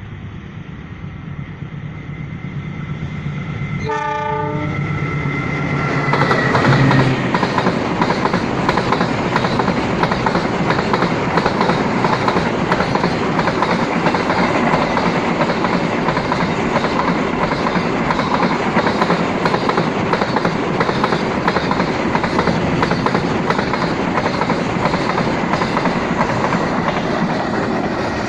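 Freight train passing close by: the horn sounds about four seconds in as the train arrives, then a long line of freight wagons rolls past with the wheels clicking over the rail joints in a steady rhythm.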